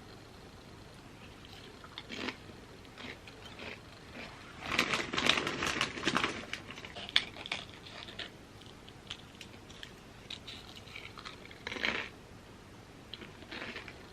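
Chips crunching and being chewed close to the microphone, in irregular crackly bursts, the densest cluster about five seconds in.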